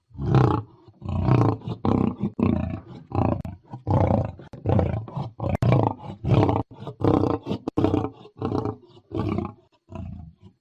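Lion roaring: a run of short, deep roars in quick succession, about two a second, growing weaker near the end.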